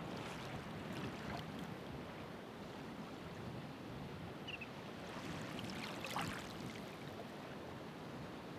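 Ocean waves washing onto the shore, a steady rush with splashier surges near the start and again about six seconds in.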